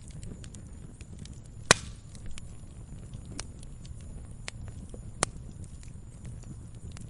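Campfire crackling: a low steady rumble of burning wood with scattered sharp crackles, and two loud pops, one a little under two seconds in and another about five seconds in.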